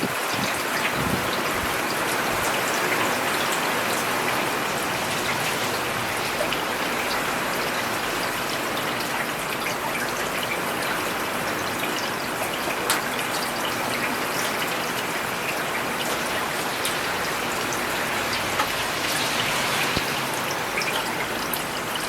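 Steady rain falling on a paved road: a dense, even hiss of drops with many small sharp drip ticks scattered through it.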